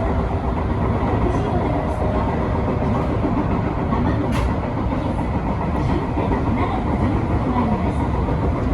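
Electric passenger train running along the line, heard from inside the front car: a steady rumble of wheels and running gear, with a few irregular clicks from the rails.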